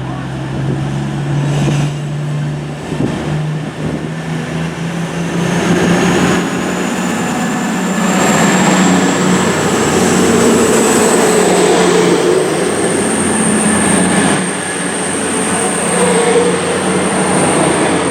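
A train running at the station, loud, with a low engine drone under a thin high whine that rises in pitch over several seconds and then holds steady.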